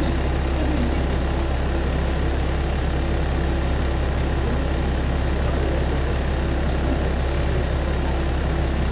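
Single-car diesel railcar heard from inside the passenger cabin: a steady low engine hum with running noise, even throughout.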